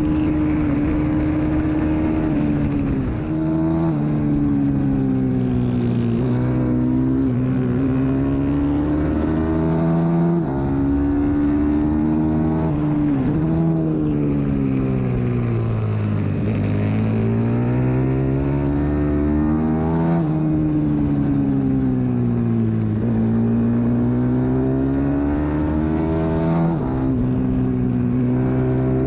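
Pit bike's single-cylinder engine at full race pace, its note climbing and falling every few seconds as the rider accelerates and brakes, with a few sudden drops at gear changes.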